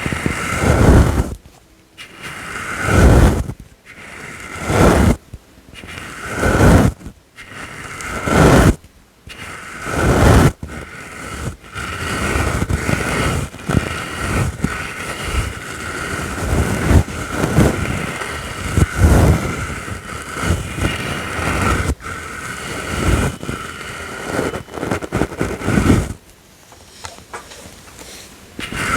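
A brush swept over the microphone, first in slow, even strokes about every second and a half, then in quicker, near-continuous brushing for most of the rest.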